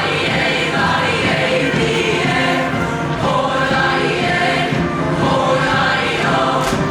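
Show choir singing, many voices together over music.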